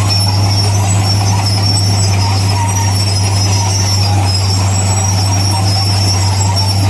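Heavy diesel engine of construction machinery running steadily with a constant low drone.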